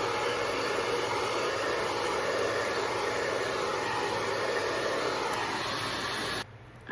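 Wavytalk hair dryer with comb attachment running, a steady rush of blown air with a faint motor hum, which cuts off suddenly near the end.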